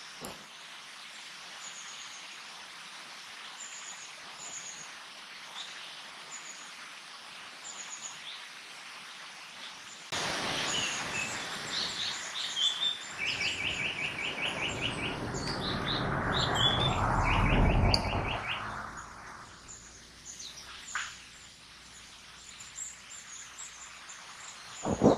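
Japanese paradise flycatcher singing close by: rapid runs of repeated notes in the middle, with faint high chirps from other birds throughout. A rushing noise swells and fades under the song, and a sharp knock comes near the end.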